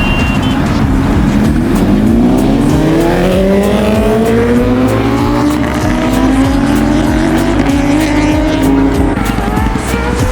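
Sport motorcycle engine revving hard. Its pitch climbs for several seconds, drops about halfway through, then climbs again near the end.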